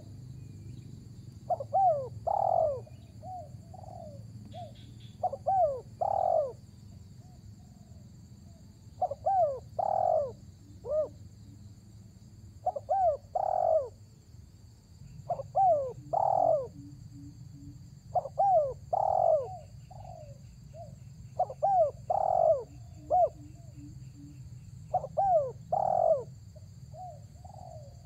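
Spotted dove cooing over and over: a phrase of several rising-and-falling coos about every three seconds, the call of a bird in full voice.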